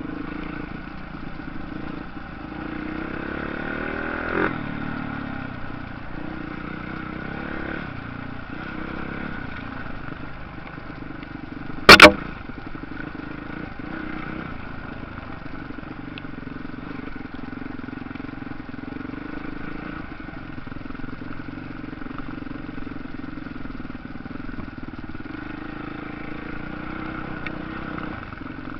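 Motocross motorcycle engines running, one revving up in a rising pitch a few seconds in. A single very loud, sharp bang about twelve seconds in.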